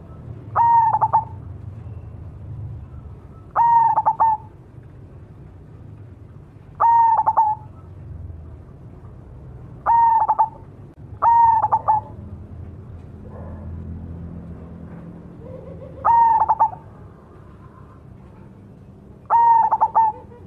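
Zebra dove (perkutut) of the black cemani variety singing, seven short cooing phrases about every three seconds, two of them close together just past the middle.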